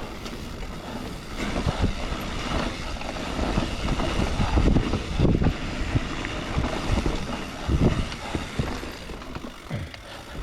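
Mountain bike ridden along a dirt trail: tyre rumble over the ground with irregular knocks and rattles from the bike, and wind on the microphone.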